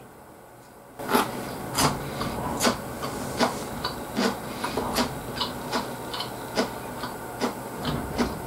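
Close-miked chewing of a mouthful of mackerel sushi: wet smacks and clicks about every three-quarters of a second, starting about a second in.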